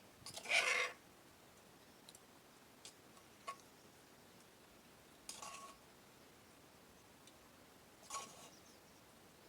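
Eating noises from a person chewing papaya salad and sticky rice: three short bursts, the first and loudest about half a second in, the others about five and eight seconds in, with a few faint clicks between.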